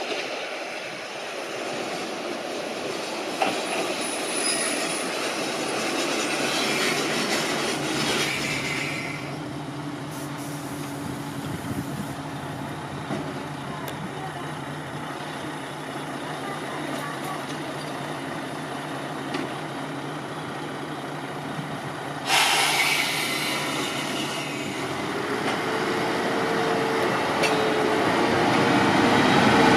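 Diesel railcar running along the track, with steady running noise. A sudden hiss comes in about 22 seconds in, and near the end the sound grows louder with a slowly rising engine tone.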